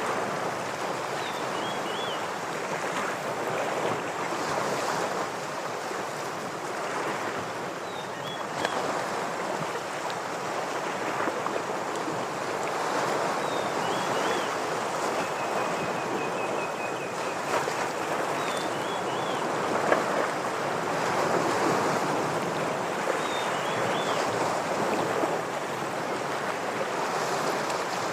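Ocean waves washing against shoreline rocks, the surf swelling and easing every few seconds. Above it, a bird repeats a short high call of a quick note and a couple of rapid notes about every five seconds, and a short run of fast high ticking notes comes near the middle.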